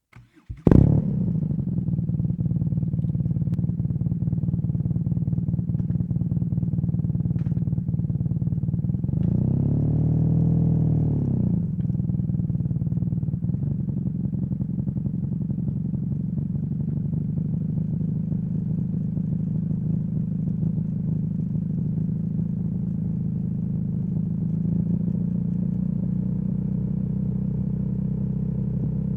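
BMW R nineT boxer twin with a Competition Werkes slip-on exhaust starting up about half a second in, then idling steadily. Around ten seconds in it is revved once, rising and falling back to idle.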